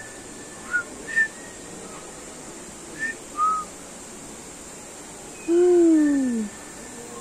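Bird calls: four short, high chirps, then one louder, low hooting call about a second long that falls steadily in pitch.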